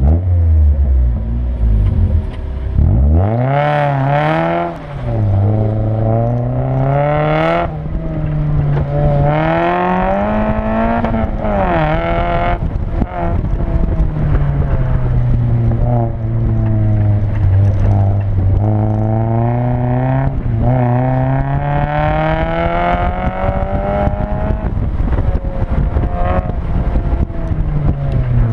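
1999 Mazda Miata's four-cylinder engine, heard from inside the open cockpit during an autocross run. It idles low at the start and launches about three seconds in. It then revs up and falls back again and again as the car is driven hard through the course.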